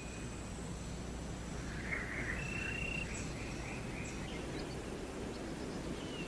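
Rainforest ambience: a steady high-pitched insect drone over a low rumble, with a few short chirps and a brief held whistle about two to four seconds in.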